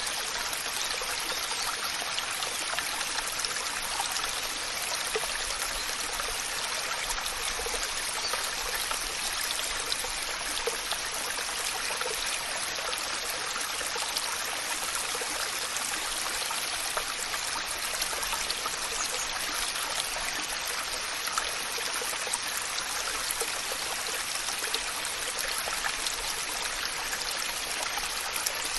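Waterfall: water falling and splashing in a steady, even rush, with small splashes flecked through it.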